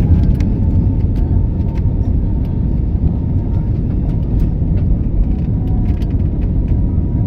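Passenger airplane cabin noise: a steady low rumble from the engines and airflow, with a faint steady whine and a few light clicks.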